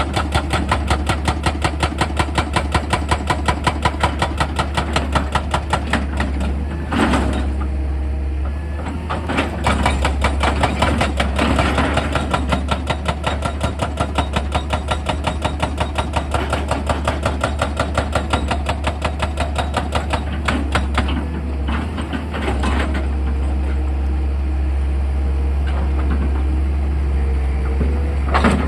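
Excavator's diesel engine running under a fast, even percussive hammering on rock, about four or five blows a second. The hammering breaks off briefly about seven seconds in and again around twenty-one seconds.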